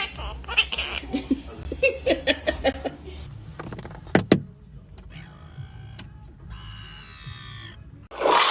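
A pet bird making a rapid string of short clicks and squeaks, then a sharp double snap, then one long pitched call lasting about a second.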